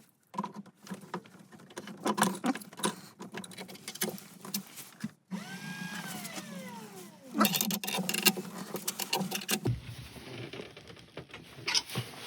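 Scattered clicks, taps and scraping knocks of hand tools and the workpiece being handled at a wood lathe. A short whine falls steeply in pitch about halfway through.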